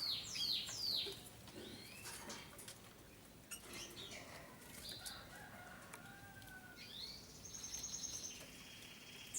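Canaries singing: a rapid run of high falling whistled notes in the first second, then scattered chirps and clicks, and a fast high trill starting about seven seconds in.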